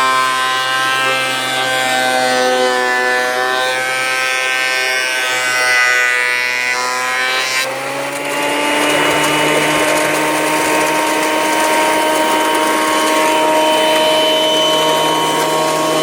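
Small electric planer running as an old board is fed through it, its motor tones wavering in pitch under the changing load. About halfway there is an abrupt change to a steadier whine over a rushing hiss.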